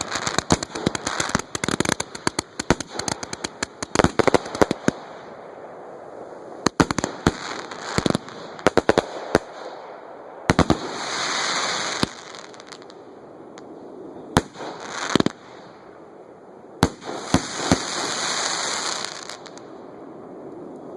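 Fireworks going off at close range: a dense run of rapid cracks and bangs for about the first five seconds, then scattered single bangs, with two stretches of hissing crackle, one about half way and one near the end.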